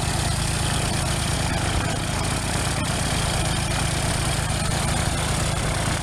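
Small propeller plane's piston engine running steadily at idle, with an even low throb.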